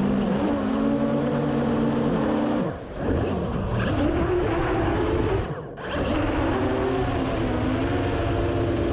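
Whine of a small remote-controlled aircraft's electric motors, its pitch shifting up and down with the throttle, over heavy wind rushing on the microphone. The sound drops off briefly twice.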